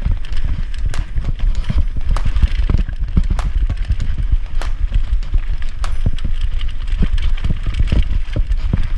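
Mountain bike rattling and clattering over rough trail on a descent, with irregular sharp knocks from the frame and chain, and a heavy low rumble of wind buffeting the microphone.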